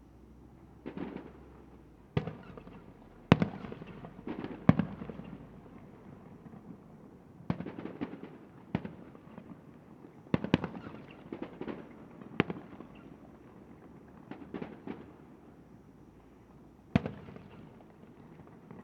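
Fireworks display: more than a dozen sharp bangs at irregular intervals, some in quick pairs, each trailing off in a short crackle and echo.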